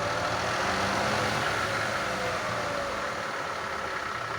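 A Chevrolet Lacetti runs with its front drive wheel turning, with a knocking sound from the wheel area. The mechanics judge that it doesn't sound like a wheel bearing and take it for a worn inner CV joint.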